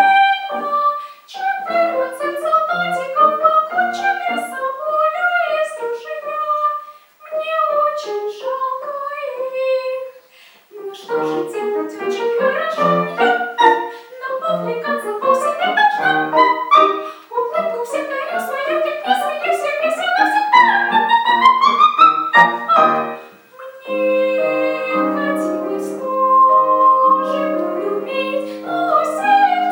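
A girl sings a solo song in a classical style with piano accompaniment. About two-thirds of the way in, her voice climbs in one long upward run. The last few seconds are steady held chords.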